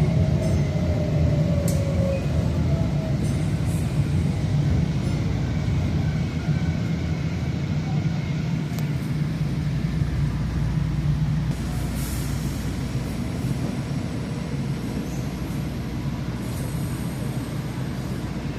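A vehicle running with a steady low rumble that eases slightly about two-thirds of the way through.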